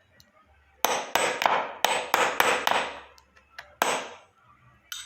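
Hammer tapping a small wrench held inside a wheel hub as a drift, knocking out the wheel bearing: a quick, uneven run of about seven sharp metallic strikes, then one more a second later.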